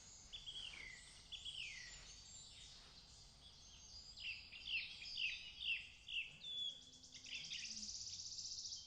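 Small songbirds singing, faint: quick falling chirps and short whistles from several birds, with a dry buzzy trill near the end.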